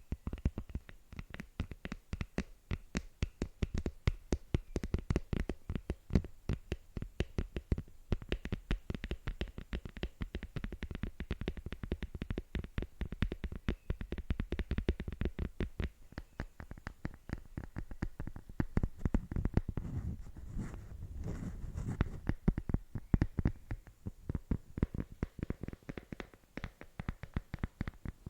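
Rapid, close-up tapping by fingers, several sharp taps a second without a break, mixed with scratching; there is a denser, scratchier stretch about twenty seconds in.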